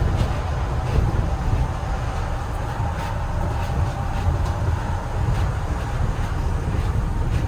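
Steady low rumble of a moving train heard from inside the carriage, with a few faint ticks and rattles.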